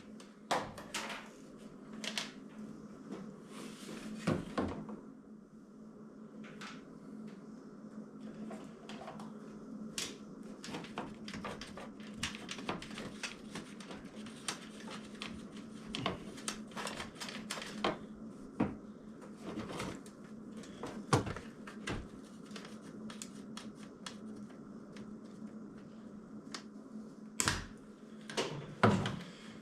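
Irregular clicks and knocks of plastic trim clips and fasteners being worked and pried loose from a car body by hand, over a steady low hum.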